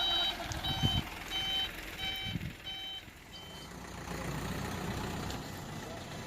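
Truck reversing alarm beeping about one and a half times a second, stopping a little over halfway through. A truck engine runs low underneath, with a couple of dull thuds in the first half.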